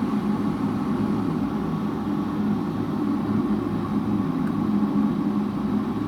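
Silvercrest SWKD 2400 B2 electric kettle heating water with a steady rumble of water nearing the boil as it works up to its set 80 °C.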